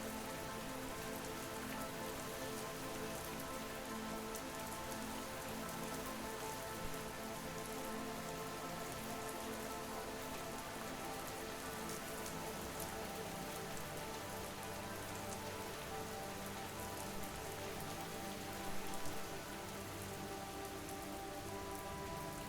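Steady rain ambience: a soft, even patter of rain falling on a surface, with a quiet bed of sustained music tones underneath.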